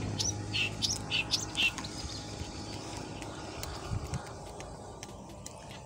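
A bird chirping, a quick series of short high notes in the first couple of seconds, then only faint outdoor background.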